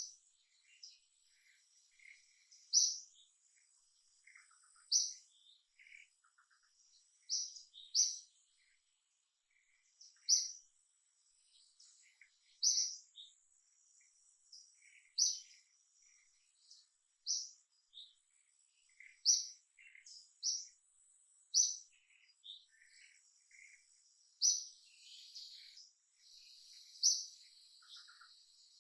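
Bird chirping: short, high-pitched calls repeated every two to three seconds, with fainter chirps between them and a faint steady high hum underneath.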